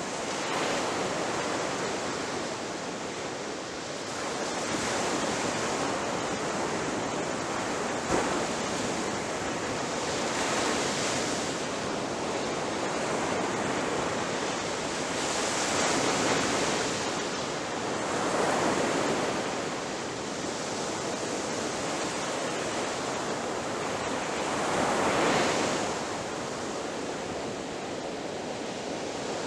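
Ocean surf breaking on a beach: a continuous wash of water that swells as each wave comes in every few seconds. A single sharp click sounds about eight seconds in.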